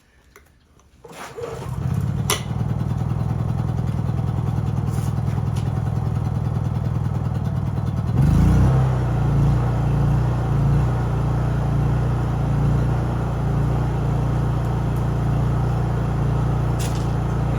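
Honda EU3000is inverter generator's single-cylinder engine fires up from a cold start on choke about a second in, then runs steadily. About eight seconds in its note shifts and it gets a little louder. A few sharp clicks are heard over it.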